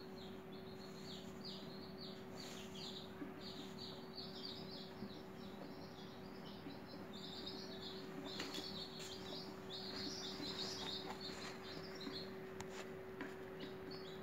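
Small birds chirping in quick irregular runs of short high notes, busiest in the second half, over a steady low hum.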